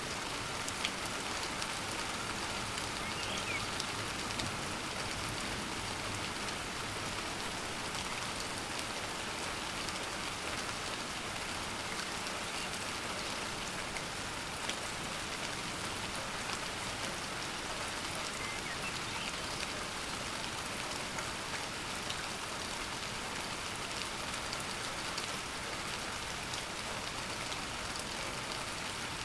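Steady heavy rain: an even hiss, with scattered individual drops tapping close by.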